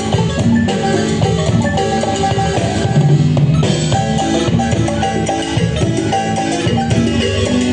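Marimba ensemble playing upbeat dance music over a steady drum beat.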